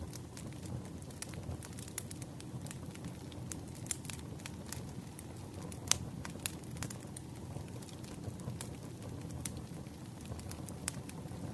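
Wood campfire crackling: a steady low rumble of flames with irregular sharp pops and snaps, the loudest about six seconds in.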